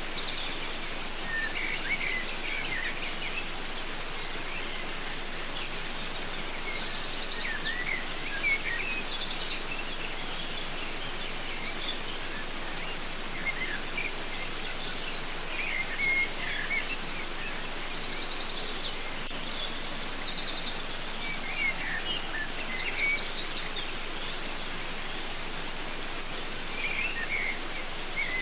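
Steady rush of a waterfall, with songbirds calling over it in recurring clusters of short chirps and rapid trills.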